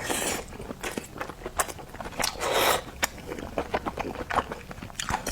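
Close-miked eating of garlic oysters: wet chewing with many quick mouth clicks, and two short louder rushes of sound, one at the start and one about two and a half seconds in.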